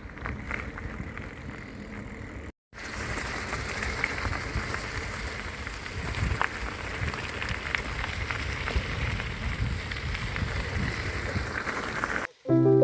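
Riding noise from a touring bicycle on the move: wind rushing over the microphone and tyres running on the road, a steady rough hiss with a few small clicks. It cuts out briefly about two and a half seconds in.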